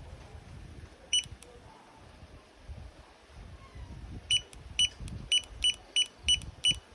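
Digital torque wrench beeping as a bolt is pulled up to a 79 lb-ft setting: one short beep about a second in, then a run of beeps from about four seconds in that speeds up to roughly four a second as the target torque is reached. Low rumbling handling noise underneath.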